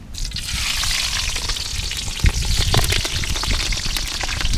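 Green chillies frying in hot oil in a kadai. The sizzle starts the moment they hit the oil and carries on with frequent crackling pops of spitting oil.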